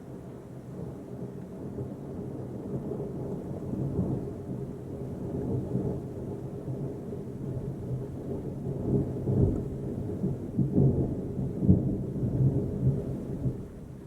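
A long, deep roll of thunder that grows louder, with several sharper peaks in the second half, then dies away near the end.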